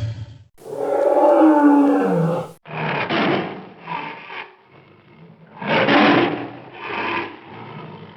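Tiger roaring: one long roar falling in pitch about a second in, then several shorter roars, the last one quieter.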